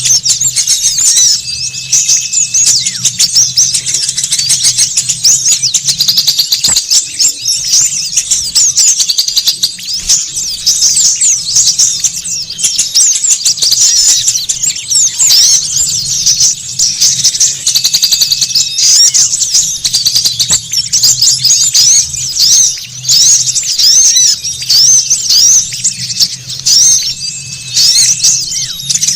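Lure recording of a flock of small birds chattering: dense, fast, overlapping high chirps and trills with no break, over a faint low hum.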